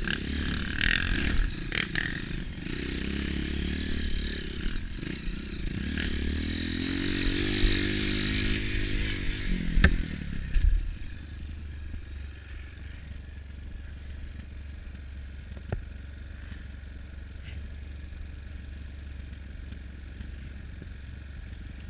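Trail motorcycle engine running and revving up and down, with a few sharp clattering knocks, then cutting back at about ten seconds to a quieter steady low rumble.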